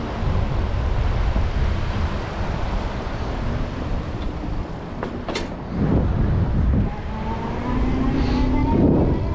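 Wind rumbling on the microphone of a moving electric bike, with louder gusts now and then. From about seven and a half seconds in, a motor's hum joins and rises slowly in pitch.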